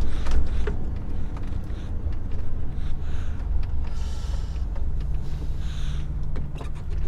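A heavy truck's diesel engine running steadily at low speed, heard from inside the cab, with a few clicks in the first second and some brief hisses midway.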